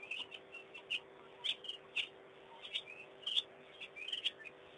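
Birds chirping: short, sharp chirps repeated irregularly, a few a second, over a faint steady hum.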